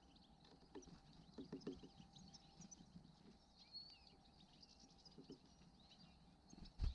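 Faint twittering of small songbirds: many short, high chirps throughout. A quick run of soft taps comes about a second and a half in, and a louder thump near the end.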